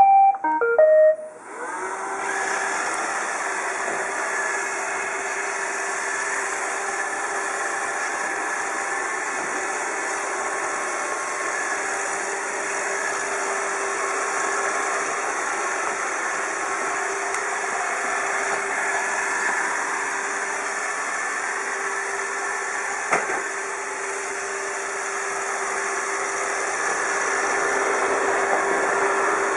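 iRobot Roomba 780 robot vacuum playing its short start-up melody of a few beeps, then its vacuum motor and brushes running with a steady hiss and a low hum. A single brief click sounds about 23 seconds in.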